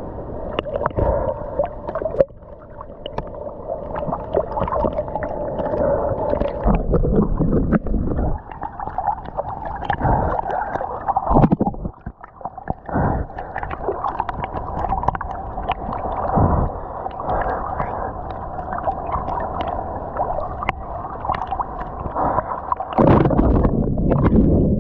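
Sea water sloshing and gurgling around a swimmer, with irregular splashes throughout.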